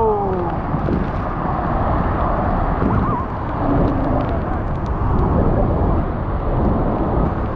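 Steady rushing noise of Niagara Falls crashing down close by, mixed with wind and spray buffeting the microphone.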